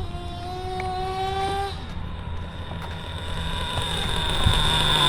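JL Max .28 nitro engine in a Traxxas T-Maxx RC truck running at high revs on a speed run. Its note climbs slightly in pitch for a couple of seconds and fades, then a steady high whine grows louder as the truck approaches.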